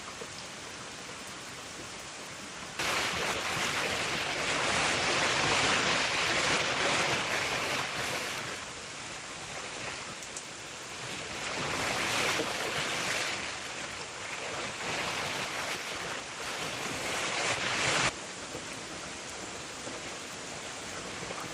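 Steady rain falling, with a much louder stretch of heavy, surging downpour that starts abruptly a few seconds in and cuts off sharply near the end.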